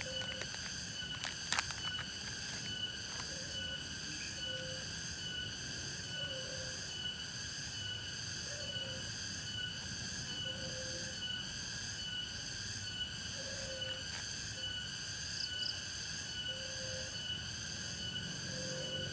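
Night-time insect chorus, crickets trilling in a steady pulsing drone of several high pitches. A short low note repeats every couple of seconds underneath, and there are a few sharp clicks about a second and a half in.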